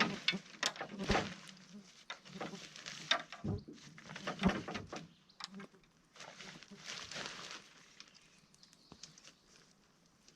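A nylon truck tent being handled during setup: fabric rustling with scattered clicks and knocks. The sounds are busiest in the first five seconds and thin out towards the end.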